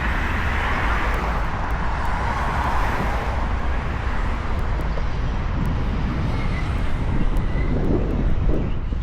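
Steady wind rumble on the microphone with a continuous rush of riding noise from a moving Onewheel, without breaks.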